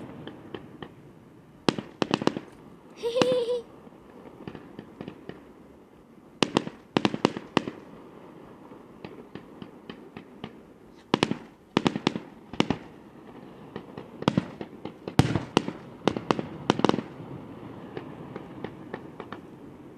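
Fireworks display: clusters of sharp bangs and crackles from bursting shells, coming in volleys every few seconds, with a short pitched hiss about three seconds in.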